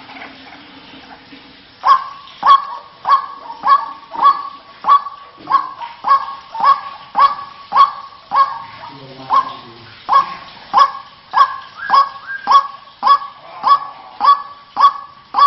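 White-breasted waterhen (ruak-ruak) call, as played for luring the bird. It is a long, even run of short, sharp notes, about three every two seconds, starting about two seconds in.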